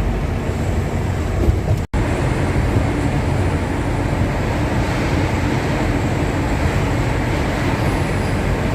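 Steady truck running noise heard from inside the cab while driving, engine and road noise together, with a brief break about two seconds in.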